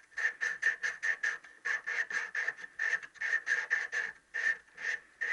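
Hand reamer cutting inside a conrod's little-end bush, turned back and forth in quick short strokes. It makes a rapid rasping squeak, about five strokes a second, with a couple of brief pauses.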